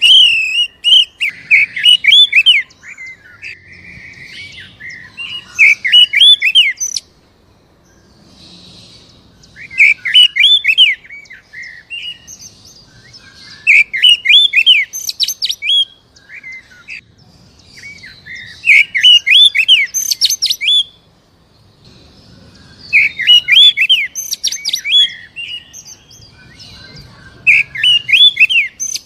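Oriental magpie-robin (kacer) singing loud phrases of rapid, arching whistled notes. A burst of about two seconds comes roughly every four seconds, with short quiet gaps between. This is the trigger song played to provoke a captive kacer into singing.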